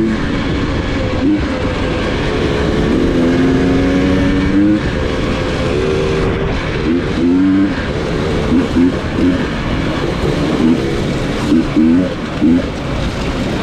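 Dirt bike engine on an off-road ride: a steady pull with the revs climbing for a couple of seconds, then a run of short throttle blips, each rising and falling in pitch.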